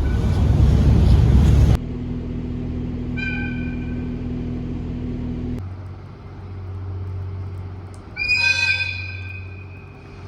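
Train horns in short cut-together clips: a train rumbles loudly, then a short horn toot about three seconds in over a steady motor hum, and near the end a louder, longer horn blast whose tone trails off.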